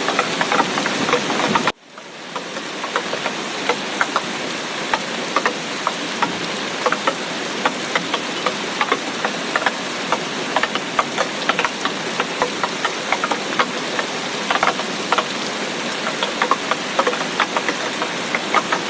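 Heavy tropical-storm rain: a steady hiss of rainfall with many sharp individual drops pattering and clicking over it. About two seconds in the sound cuts out abruptly and fades back up within a second.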